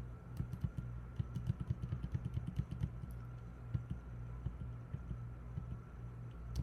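Computer keyboard keys being tapped in quick, irregular succession, several clicks a second, as images are stepped through during editing, over a steady low hum.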